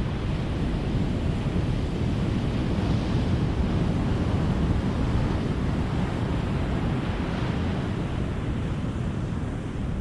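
Ocean surf washing ashore: a steady rushing of breaking waves, swelling a little and easing back.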